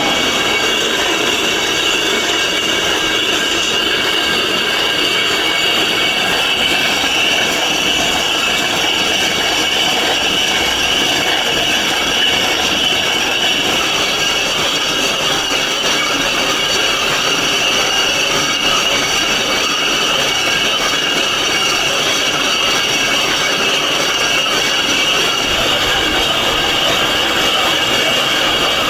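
Steady, high-pitched grinding screech of stone being cut or shaped with a power tool, running without a break.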